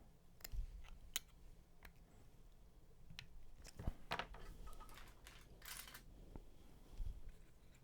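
Scattered light clicks and scrapes of a 21700 lithium-ion cell being forced out of a battery pack's plastic cell holder, with a longer scrape about four seconds in and a dull knock near the end.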